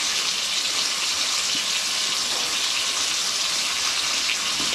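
Ham frying in butter in a pan on a portable gas stove, giving a steady sizzle.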